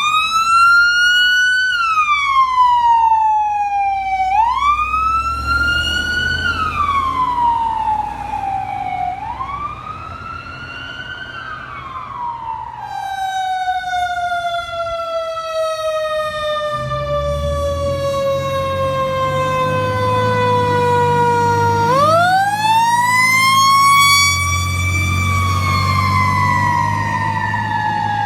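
Fire apparatus siren with a mechanical-style wail: it winds up quickly and then coasts down slowly in pitch, four times, once with a long fall of about ten seconds. A heavy truck engine rumbles underneath as the apparatus goes by.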